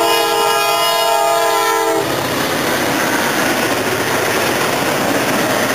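Diesel freight locomotive's multi-chime air horn holding a blast that cuts off about two seconds in. After it comes the steady noise of autorack freight cars rolling past on the rails.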